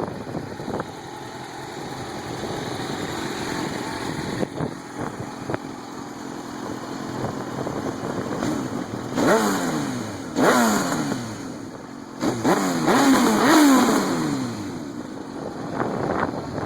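Suzuki GSX-R1000 K6's inline-four engine running through a Yoshimura TRS exhaust, idling, then blipped several times between about nine and fourteen seconds in, each blip revving up sharply and falling back to idle.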